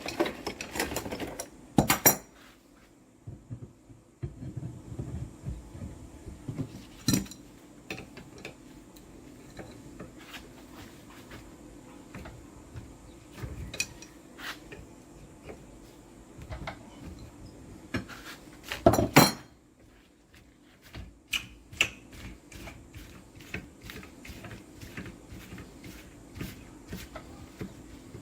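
Metal tools and shock absorber parts clinking and clattering on a workbench as a motorcycle shock is taken apart, with two louder metallic knocks about 2 and 19 seconds in.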